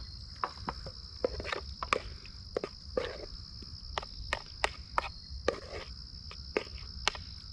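Irregular clicks and knocks of a utensil scraping and tapping a mixing bowl as a chunky enchilada casserole mixture is scooped out into a baking pan, over the steady high trill of crickets.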